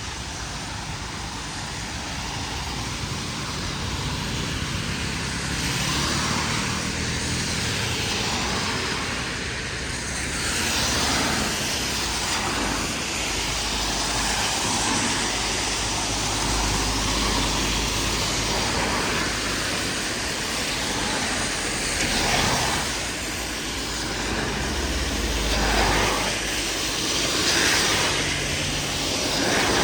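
Heavy rain hissing steadily on a city street, with vehicles passing on the wet road; deeper rumbles swell in about halfway through and again near the end.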